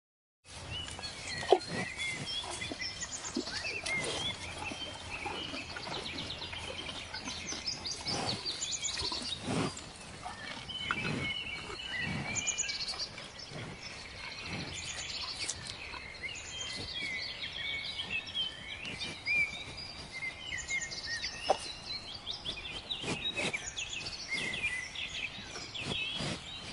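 A flock of small birds chirping and twittering continuously, many short overlapping calls, with scattered sharp clicks.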